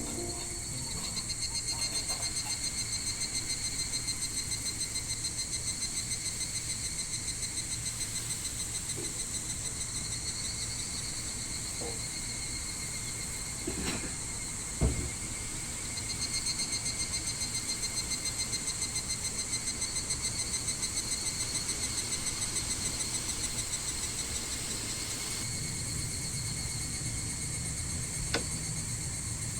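A steady chorus of summer insects in the forest, shrilling on several high tones, with a fast, even pulsing call through most of it. A soft knock sounds just past the middle.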